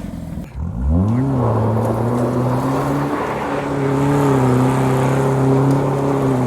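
A car engine revving up quickly about a second in, then holding steady, fairly high revs, as when a vehicle accelerates and pulls away.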